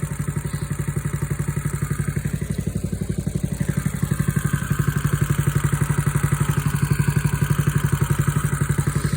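Diesel engine idling with a steady, even pulse as it warms up after a cold start.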